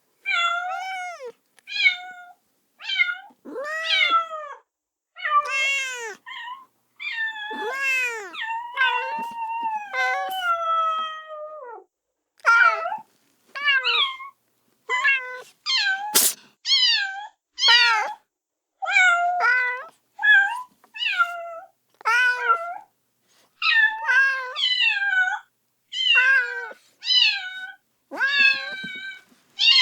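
Kitten meowing loudly and over and over, about one call a second, calling for its mother. A few longer calls that fall in pitch come about a third of the way in, and a single brief click sounds around the middle.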